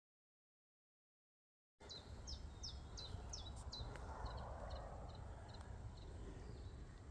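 Dead silence for nearly two seconds, then countryside ambience with a songbird calling: a run of short falling chirps, about three a second, followed by softer quick chirps, over a low steady rumble.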